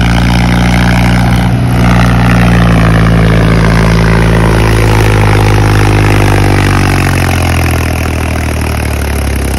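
Mahindra tractor's diesel engine running hard under heavy load. Its note holds steady, then sags about six seconds in as the engine bogs down.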